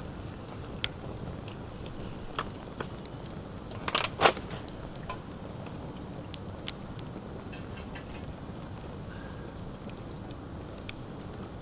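Wood fire crackling, with scattered sharp pops over a low steady hiss; the loudest pops come about four seconds in.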